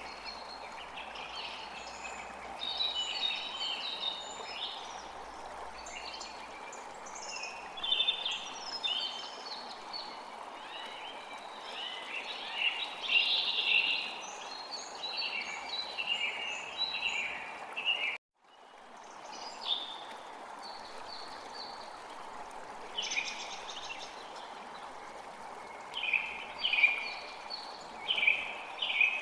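Many songbirds chirping and singing in quick short phrases over a steady rush of running stream water. About two-thirds of the way through the sound cuts out completely for a moment and then fades back in.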